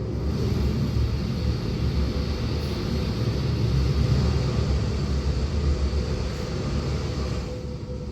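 Steady, dense low roar of a very large waterfall, tons of water thundering over the falls.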